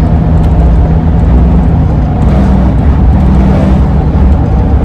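A Ford E-350 van driving, heard from inside: a loud, steady road and wind rumble with a constant low hum.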